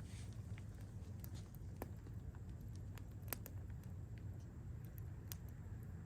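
Wood campfire crackling, with scattered sharp pops at irregular intervals, the loudest a little past halfway, over a steady low rumble.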